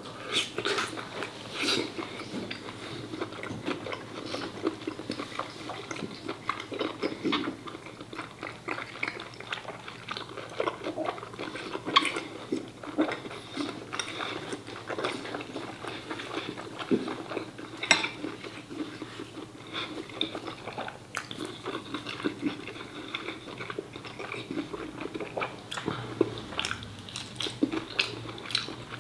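Close-miked chewing and biting of braised pork offal (phá lấu): wet, irregular mouth sounds with scattered sharp clicks, the loudest about twelve and eighteen seconds in.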